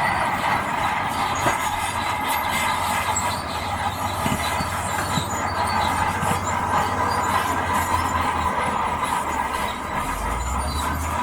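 Crawler bulldozer at work: diesel engine running under load with a steady metallic squeal and clatter from its steel tracks. The low engine note grows louder about ten seconds in.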